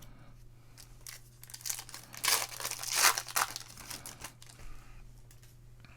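Foil wrapper of a basketball card pack being torn open and crinkled, a run of crackling rustles that is loudest about two to three and a half seconds in.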